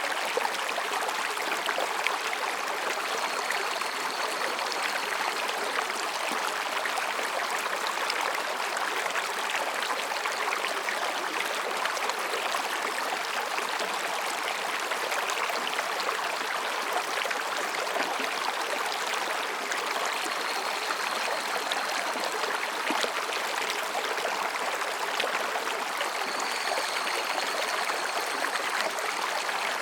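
Mountain stream running over and between rocks, a steady, even babble of water. Faint, high, thin calls of higurashi cicadas come and go three times above it.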